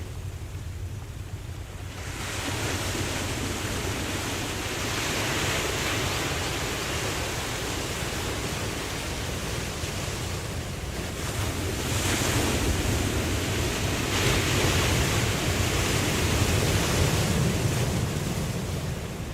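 Ocean waves washing in, a steady low rumble under a hiss of surf that comes in about two seconds in and swells twice, around six seconds and again from about twelve to seventeen seconds, easing near the end.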